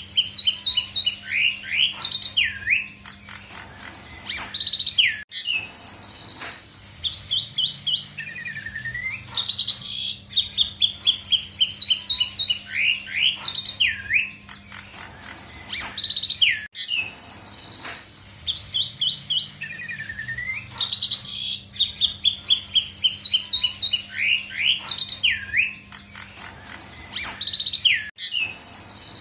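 Asian pied starling (jalak suren) singing a loud, varied song of rapid whistles, trills and sweeping notes, filled with mimicked calls of other birds. The same run of phrases recurs about every ten seconds.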